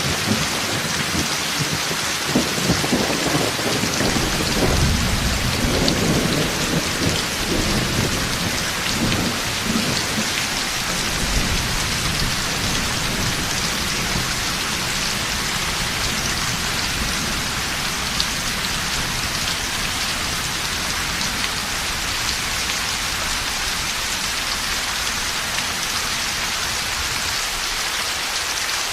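Heavy rain falling steadily with rolling thunder. The thunder rumbles through the first half and dies away about halfway through, leaving only the steady rain.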